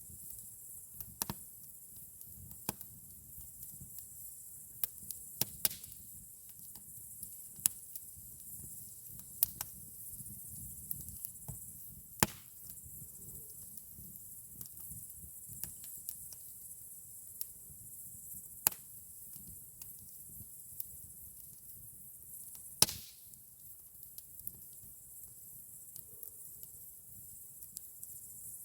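Campfire crackling: burning wood giving off irregular sharp pops and snaps, two louder than the rest, one a little before halfway and one about three-quarters through, over a faint steady hiss.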